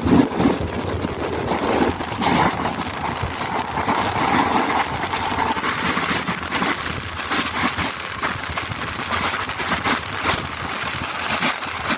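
Passenger train running: a steady noisy rumble with continual rattling and clatter.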